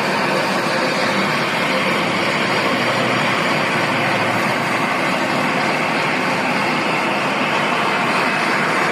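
A steady engine or machine running without change.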